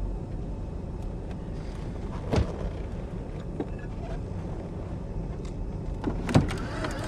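Steady low drone of an airliner cabin in flight, with two brief knocks, a light one about two seconds in and a louder one near the end.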